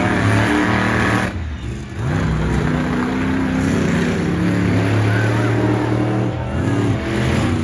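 Monster truck engine revving hard, its pitch rising and falling again and again, with a short drop about a second and a half in.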